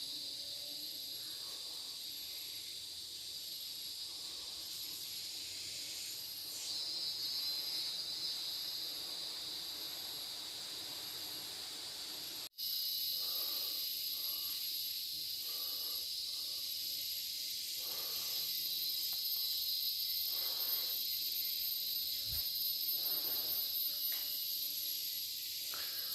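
Steady, high-pitched drone of a rainforest insect chorus, with soft irregular rustles beneath it. The sound cuts out for an instant about halfway through.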